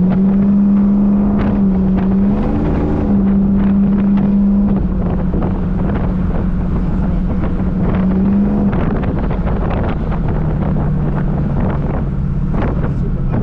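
Car engine running under way through a custom exhaust, its steady note shifting slightly early on and dropping to a lower, steady speed about nine seconds in. Wind buffets the microphone.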